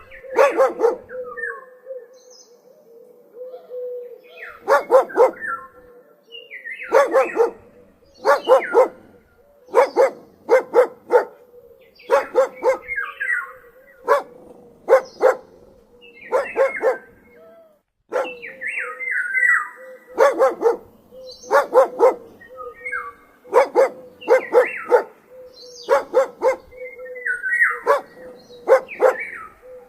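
Dog barking repeatedly, in short runs of two or three barks every second or two.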